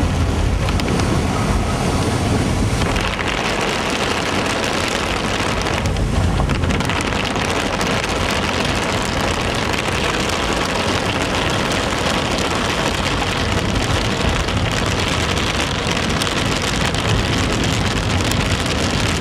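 Heavy rain pelting a moving car's roof and windscreen in a steady hiss, over the low rumble of the car on the road; the rain grows stronger about three seconds in.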